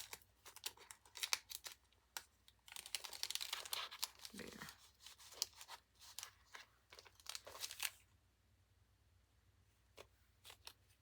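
Paper crinkling and rustling with many small clicks as pieces of a handmade paper journal are handled and tucked into a paper pocket; it stops about eight seconds in.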